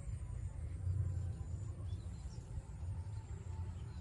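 Outdoor background: a low steady rumble with a few faint, short, high bird chirps.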